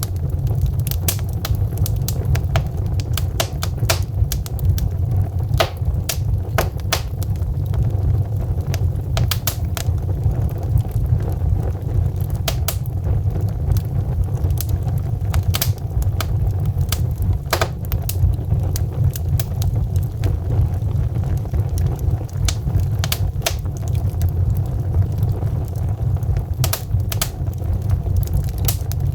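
Wood logs burning in a fireplace, crackling with frequent sharp, irregular pops over a steady low rumble of the flames.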